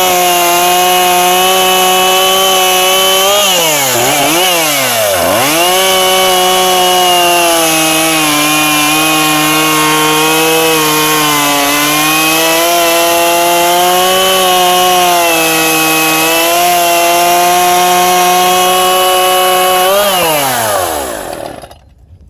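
Husqvarna 137 two-stroke chainsaw running at high revs while cutting a log, its engine note holding steady under load, freshly rebuilt fuel system and tuned carburetor. The pitch dips sharply twice about four seconds in. Near the end the engine winds down and stops.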